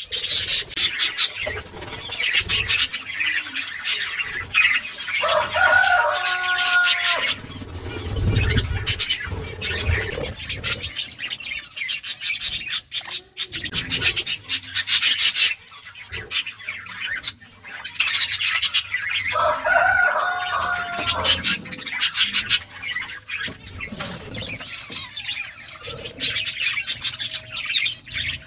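Small birds chirping and chattering in a rapid, busy stream while feeding, with two short, lower pitched calls, one about six seconds in and one about twenty seconds in.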